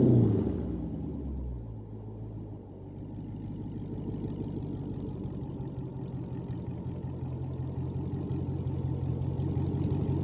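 2009 Dodge Charger SRT8's 6.1-litre Hemi V8: revs falling off in the first half-second, then a low steady rumble that slowly grows louder.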